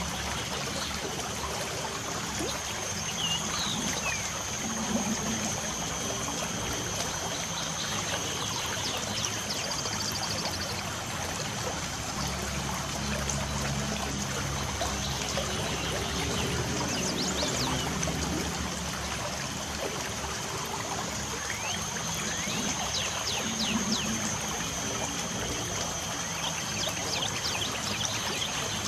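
Steady trickling water with birds chirping in short calls every few seconds.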